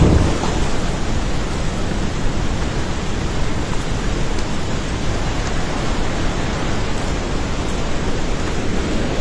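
Swollen floodwater river rushing, a steady loud rush of water with no break.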